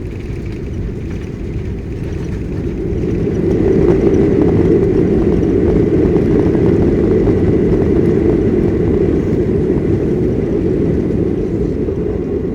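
Airliner cabin during the landing: a loud low rumble of engines and runway that swells about three seconds in, holds, then eases off near the end.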